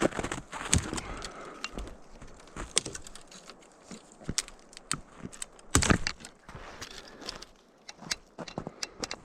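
Camping gear being handled: irregular clinks, clicks and knocks with rustling, the loudest knock a little before the six-second mark.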